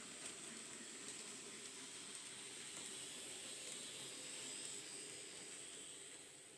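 Faint running of an N gauge model locomotive: a thin, steady high whine over hiss, with a few light clicks, swelling a little midway and easing off near the end.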